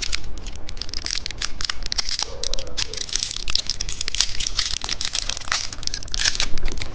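Plastic candy wrapper crinkling and tearing as it is opened, in a dense run of sharp, irregular crackles.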